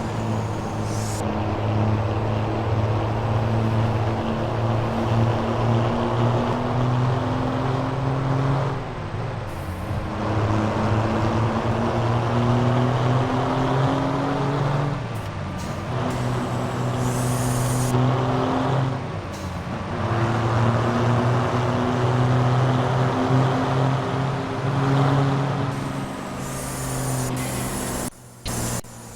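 Scania V8 diesel truck engine pulling under load, its note slowly climbing and then dipping sharply three times, about 9, 15 and 20 seconds in, as at gear changes. Short hisses come in around 17 and 27 seconds.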